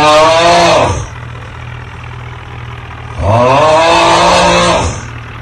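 Engine revved twice over a steady low idle: each rev sweeps up in pitch and holds briefly, the first ending about a second in and the second lasting from about three to five seconds in.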